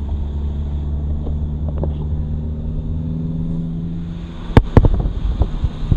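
Car engine running at a steady low drone, heard from inside the cabin. A few sharp knocks come near the end and are the loudest sounds.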